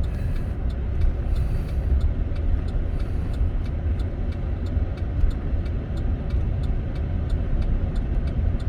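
Steady low rumble of a vehicle driving on a snow-covered road, heard from inside the cab: engine and tyre noise.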